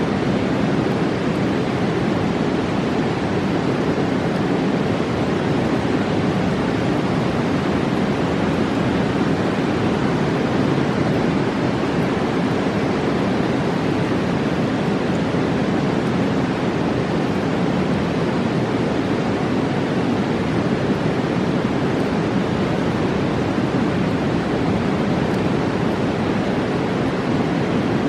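Roaring mountain river: fast water rushing, a steady deep noise with no breaks or changes.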